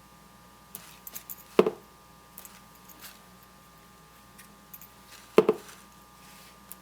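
Scattered light taps and clicks, with two louder knocks about one and a half seconds in and again about five and a half seconds in, from painting tools being tapped or set down on a hard work surface, over a faint steady hum.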